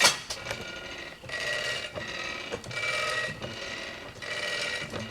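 Metal ratchet mechanism on the Frick sawmill carriage, worked in short strokes about every second and a half, after a sharp knock at the start.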